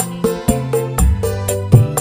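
Music played loud through a sound system being checked, with heavy bass: deep sustained bass notes under a steady beat of about four strikes a second.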